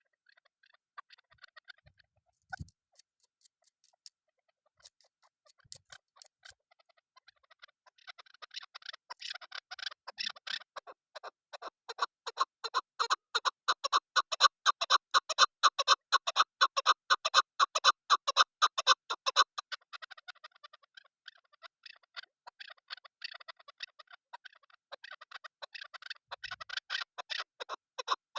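Female chukar partridge calling: a fast run of short repeated notes. It starts sparse and faint, builds about eight seconds in to a loud stretch, eases off after about twenty seconds and builds again near the end.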